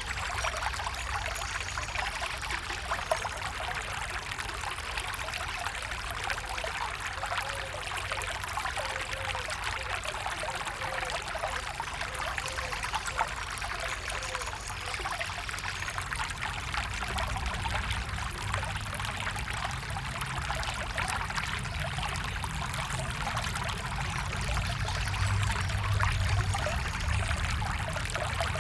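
A small stream flowing and trickling steadily, with faint gurgles; a low rumble swells briefly near the end.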